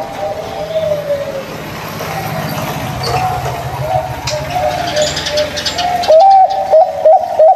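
Zebra doves (perkutut) cooing: fainter calls over a low background drone, then about six seconds in a loud, close series of quick rippling coo notes.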